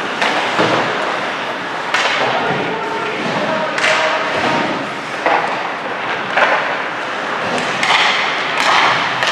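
Ice hockey game in an echoing rink: sharp thuds and knocks every second or two, such as the puck and players striking the boards, over a steady background of crowd and player voices.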